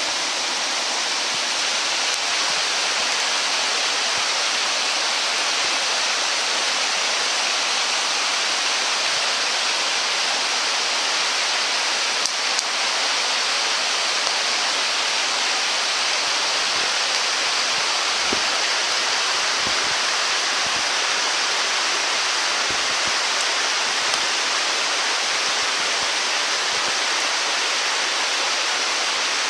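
Steady rushing noise of flowing water, with a few faint knocks partway through.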